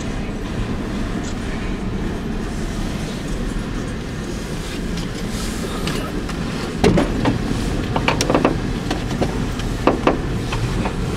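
Freight train cars rolling past with a steady low rumble of steel wheels on rail, and a series of sharp clacks in the second half.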